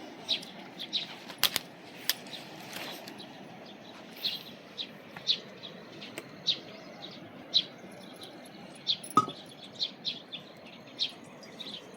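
A bird chirping over and over, short high chirps about once or twice a second, over a steady low hiss. A few sharp clicks cut in, the loudest about nine seconds in.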